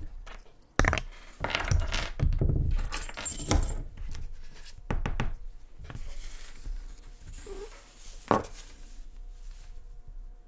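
Small metal tools and keys clinking and clattering as they are handled and set down on a hard surface, with a sharp knock about a second in and another near the end.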